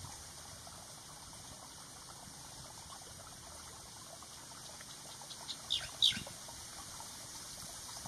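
A few short, high bird calls in quick succession about five and a half to six seconds in, the last one sweeping downward, over a steady faint hiss.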